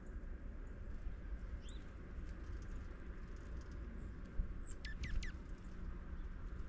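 Small birds chirping at a feeder: a couple of short high chirps early on, then three quick high notes falling in pitch about five seconds in. Faint taps sound throughout, with one sharper knock just before the falling notes, all over a low steady rumble of wind on the microphone.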